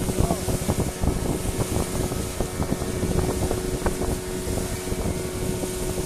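Small wooden fishing boat's engine running steadily under way, a constant hum over a rough, uneven rumble.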